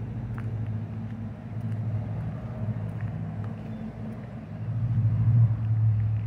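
Car engine running at low speed, a steady low hum that swells louder about five seconds in.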